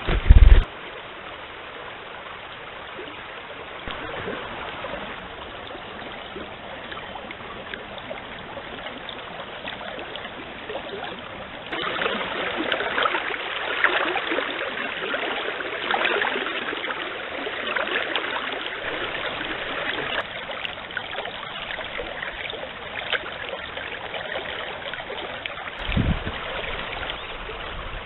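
Forest stream running steadily, louder from about twelve seconds in. A loud, short low thump right at the start and another near the end.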